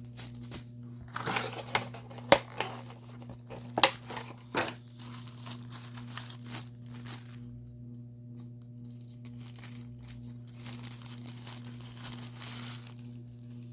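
Plastic packaging crinkling and rustling as it is handled and unwrapped, with a few sharp snaps in the first half and more rustling near the end. A steady low hum runs underneath.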